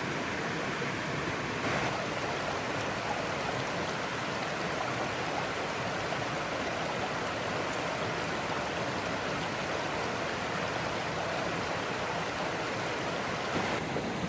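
Steady rushing of flowing water from a stream or waterfall.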